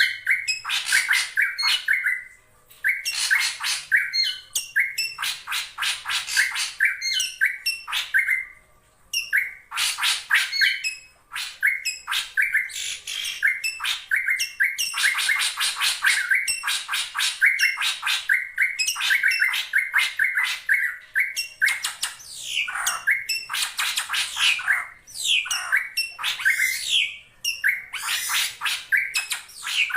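Drongo calling: fast runs of harsh, scratchy notes mixed with short whistles, broken by a few brief pauses. These are rival-challenging calls of the kind used as a lure.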